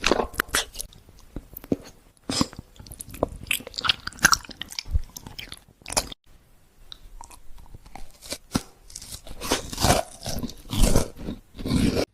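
Close-up crunchy biting and chewing of food, a dense run of irregular crunches that grows louder in the last few seconds and stops abruptly at the end.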